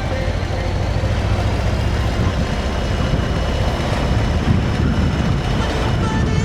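Motorcycle engine running steadily while riding along, mixed with road and wind noise.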